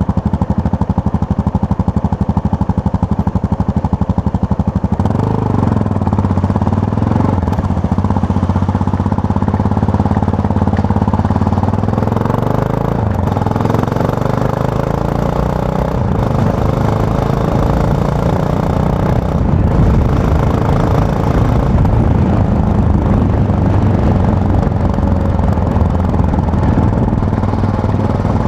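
Yamaha MT-03 motorcycle engine pulsing evenly at low revs. About five seconds in, its note changes. Around halfway through it rises in pitch as the bike accelerates, then settles into a steady run.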